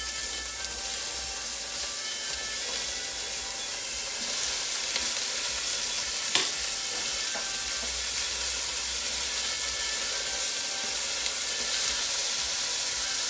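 Chopped tomatoes sizzling in hot olive oil and garlic in a stainless steel frying pan as they are added. The sizzle gets louder about four seconds in, and there is one sharp tap a little after six seconds.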